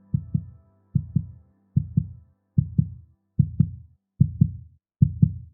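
A heartbeat sound effect: seven double thumps, lub-dub, about 75 beats a minute, under a soft held chord that fades away. It cuts off suddenly at the end.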